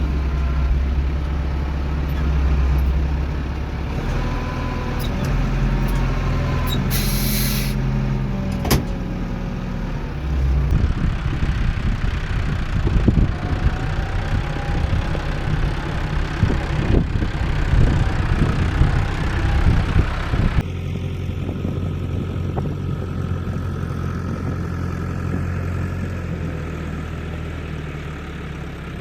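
Diesel engine of heavy earthmoving machinery running under load. A short hiss comes about a quarter of the way in, and a long stretch of dense clattering and knocking fills the middle. The sound changes abruptly about two-thirds through to a steadier engine drone.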